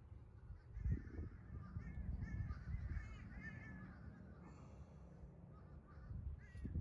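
A bird giving a run of short, harsh calls, about two to three seconds in, over a steady low rumble, with a dull thump about a second in.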